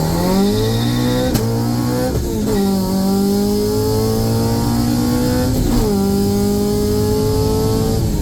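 H-series-swapped Honda Civic's four-cylinder engine pulling hard through the gears. Revs climb, then drop sharply at three upshifts: about a second in, about two and a half seconds in, and near six seconds.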